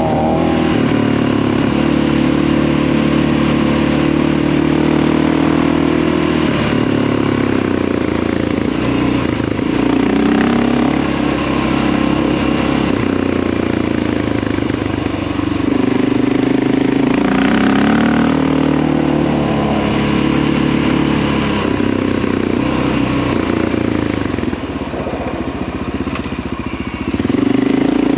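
Honda XR650L's big single-cylinder four-stroke engine running under way, holding a steady speed for the first six seconds or so, then rising and falling repeatedly with the throttle as it is ridden. It eases off briefly near the end, then picks up again.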